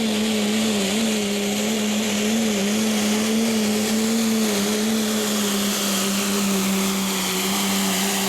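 Diesel pickup truck engine running at high, steady revs under full load while dragging a weighted pulling sled, its pitch wavering only slightly.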